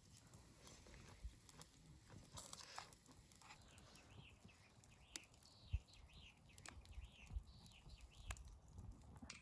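Faint bird chirps, a quick run of short rising and falling notes in the middle of the stretch, over quiet background with a few soft clicks.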